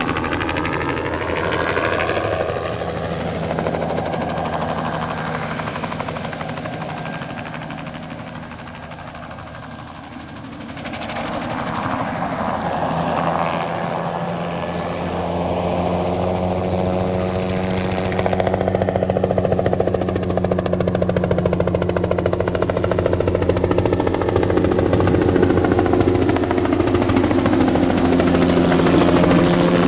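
Single-engine turbine helicopter flying low passes during crop spraying, its rotor and engine sound sweeping with a phasing quality. It fades to its quietest about ten seconds in, then grows steadily louder as the helicopter comes back close.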